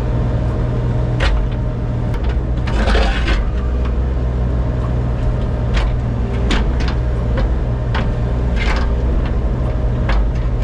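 Engine of a compact earthmoving machine running steadily while boulders are set, with scattered sharp knocks and a louder scraping rush about three seconds in, and another near the end.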